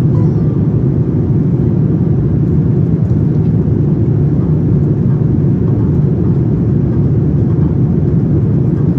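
Steady, loud cabin roar inside a Boeing 787-9 airliner with its engines running, heavy in the low end and without a break.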